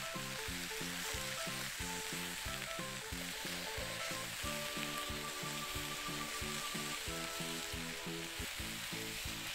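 Chicken pieces frying in hot oil in a pot, a steady sizzle as they brown. Light background music with a repeating beat runs underneath.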